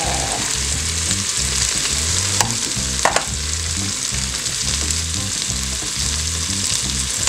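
Onions, jalapeños and smoked turkey tails sizzling steadily in olive oil in an electric pressure cooker's pot on its sauté setting, with two light clicks a little before the middle.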